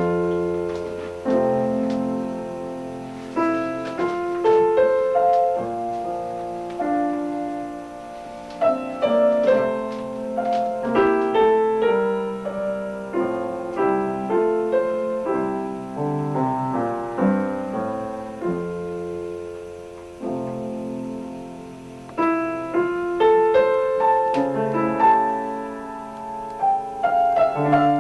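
Solo piano playing a slow classical study in voicing, with a melody brought out over its own accompaniment, all played by the left hand. The notes ring and fade, with a brief softer stretch a little past the middle.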